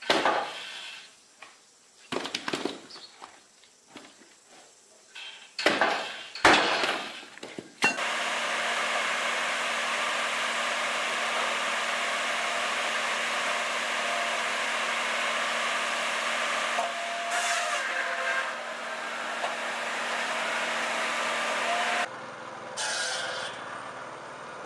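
Sharp knocks and cracks of wood for the first several seconds. Then a power saw runs steadily, cutting wood, for about fourteen seconds, and stops sharply near the end.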